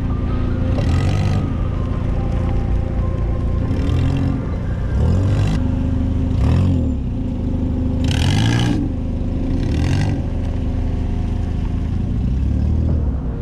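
Small four-cylinder engine of a Toyota Starlet revving up and falling back again and again while being driven hard on a dirt track. Each rev peak brings a burst of tyres scrabbling on loose dirt.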